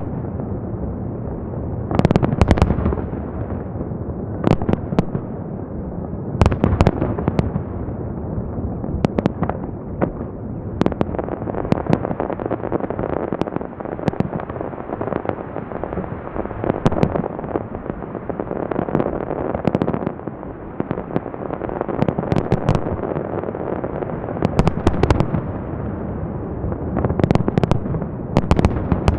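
Fireworks salute: a continuous barrage of shells bursting with dense crackling between them, and heavier volleys of sharp bangs a couple of seconds in, again at about seven seconds, and near the end.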